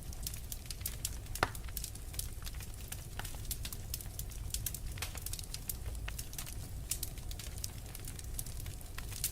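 Wood fire in a fireplace crackling, with many small sharp pops and one louder pop about a second and a half in, over a low steady rumble.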